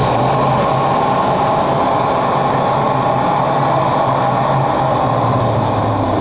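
Homemade propane-fuelled turbojet engine running steadily: a loud, constant rushing noise with a low hum underneath.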